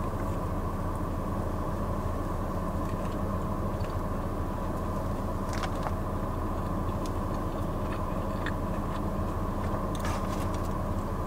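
Steady hum of a car's idling engine and ventilation fan, heard from inside the cabin, with faint chewing of a sandwich and a few soft clicks.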